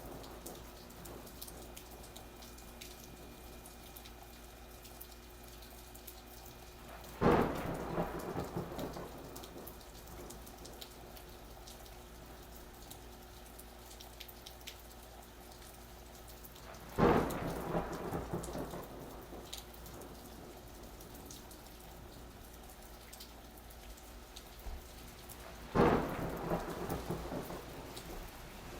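Steady rain falling, with three thunderclaps about ten seconds apart, each starting suddenly and fading over a second or two.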